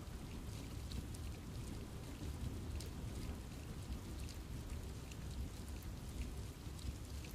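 Steady rain falling in a forest, with many separate drops pattering on leaves over a constant low rumble.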